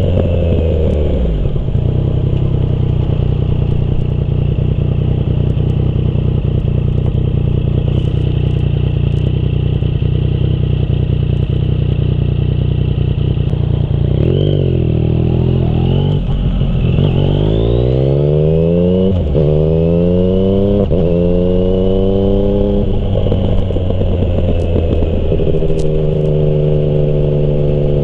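Yamaha MT-09's inline three-cylinder engine through a Termignoni exhaust, cruising at a steady pitch. About halfway through it accelerates, the pitch rising and dropping back at several upshifts, then it settles into a steady cruise again.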